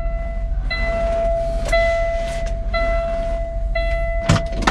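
Cab warning chime of a Kenworth W990 truck dinging steadily, restarting about once a second. A thump near the end.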